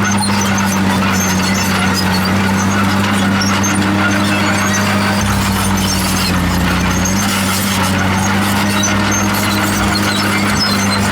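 Komatsu D51PX crawler bulldozer working, its diesel engine running with a steady low hum while its steel tracks squeal and squeak. The engine note deepens about five seconds in.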